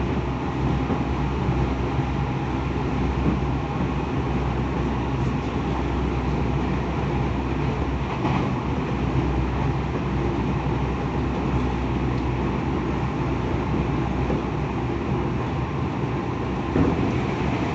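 Tokyo Metro 10000 series electric train running at speed, heard from inside the passenger car: a steady rumble of wheels on rail with faint steady tones over it.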